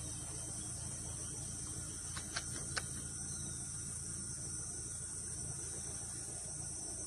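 Steady high-pitched drone of a forest insect chorus, with a low rumble underneath. Three short sharp clicks come close together a little over two seconds in.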